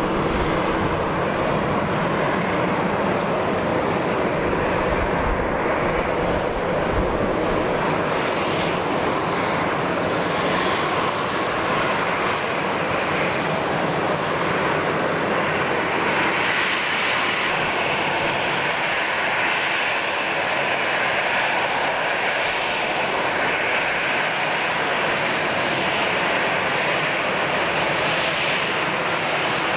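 Airbus A320 jet engines running steadily and loudly. The sound starts as a deep rumble and, about halfway through, turns into a higher hiss with a faint steady whine.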